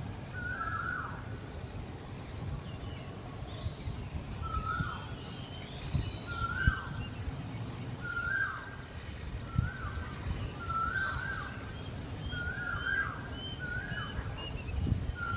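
A bird calling over and over, a short whistled note that holds and then drops in pitch, about once a second with a pause in the first few seconds; a few faint higher chirps join near the end.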